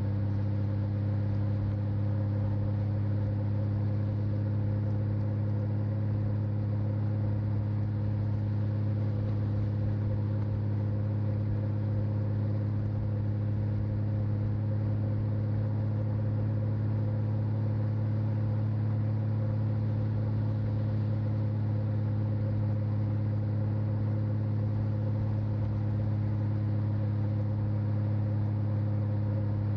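Honda Valkyrie F6C's flat-six engine running at a steady, unchanging speed while riding, picked up by a microphone on the rider's back.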